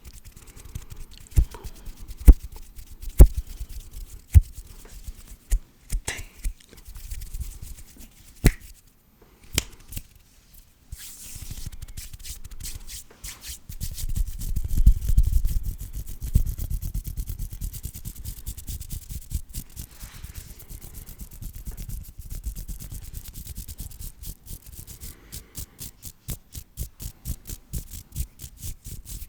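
Hands rubbing together close to the microphone, with scattered sharp clicks in the first ten seconds and quicker, even rubbing strokes, several a second, near the end.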